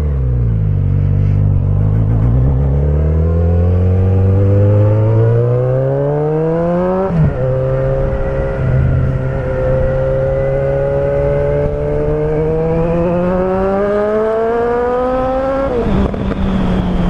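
Suzuki Bandit 1250's inline-four engine through a straight-pipe exhaust with no muffler, accelerating hard through the gears. The engine note climbs for several seconds, drops at an upshift about seven seconds in, climbs again, and drops near the end.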